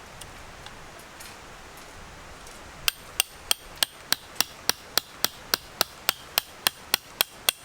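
A hammer striking in a quick, even rhythm, about three blows a second, starting about three seconds in and keeping on steadily.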